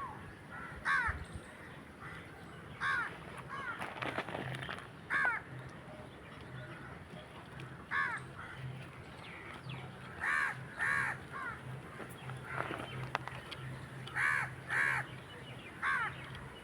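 Crows cawing, about eight harsh caws spaced a few seconds apart, some in quick pairs, over a faint steady low hum.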